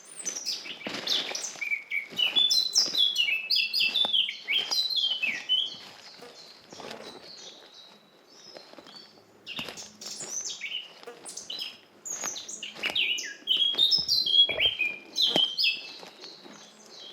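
Forest songbirds singing in quick runs of high chirps and trills, in two long bouts with a quieter stretch of a few seconds between them.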